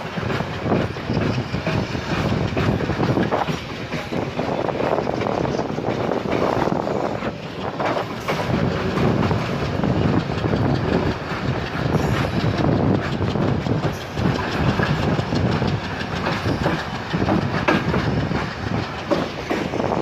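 Express passenger train running at speed, its wheels clattering over the rail joints under a steady rumble.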